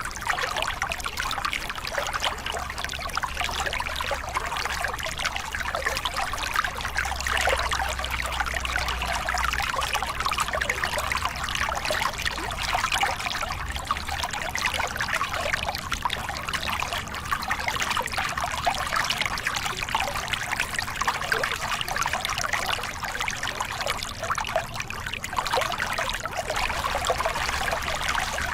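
Small river cascade: water spilling and splashing over rocks in a steady, unbroken rush.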